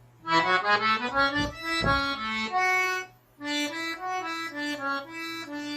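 Accordion playing a slow melody of single notes stepping along a scale, in two phrases with a short break about three seconds in.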